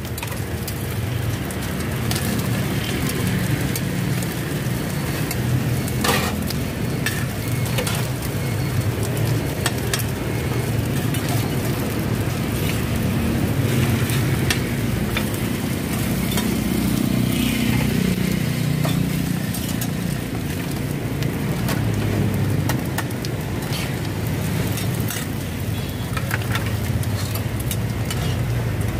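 Bột chiên (rice-flour cake cubes) and eggs sizzling in oil on a large flat pan, with scattered clicks and scrapes of a metal spatula and tongs against the pan. A steady low rumble runs underneath.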